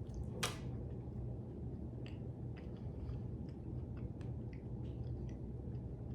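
Someone eating cheesecake with a fork: one short sharp clack of the fork about half a second in, then faint scattered clicks of chewing and utensil over a steady low hum.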